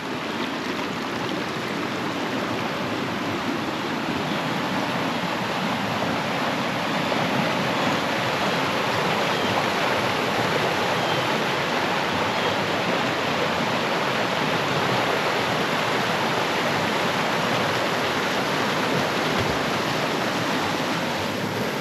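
Flash-flooded creek raging: a steady, loud rush of fast water, the creek running high after heavy rain.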